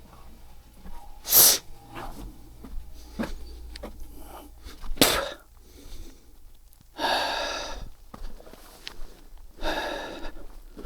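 Two sharp knocks of wood, like split firewood logs being set down or stacked, with a few lighter clicks. In the second half come two long, heavy breathy exhalations of a man working.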